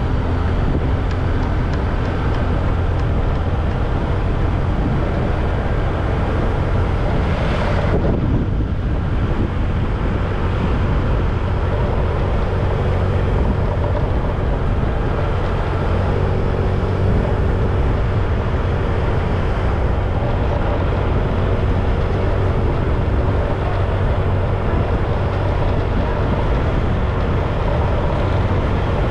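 Motorbike running steadily on the road, with wind rushing over the action camera's microphone while riding.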